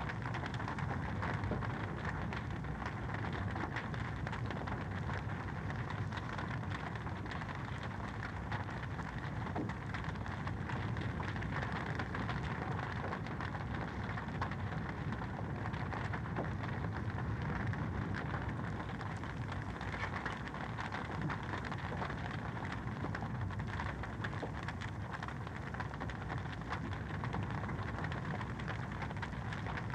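Wood fire crackling in a fireplace: a steady, dense run of small crackles and pops over an even hiss.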